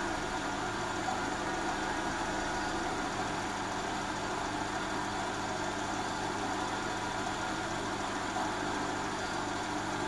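Mazda Familia Astina's engine idling steadily. The owner believes most of the noise is coming from the water pump, which he says is making a noise.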